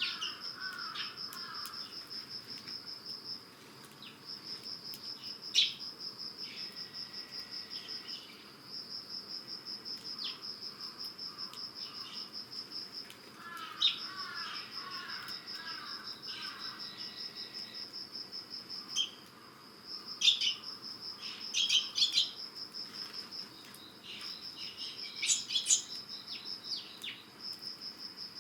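Autumn insects trilling in long, finely pulsing bouts a few seconds each, broken by short pauses. Eurasian tree sparrows chirp over them in short calls, more often in the second half.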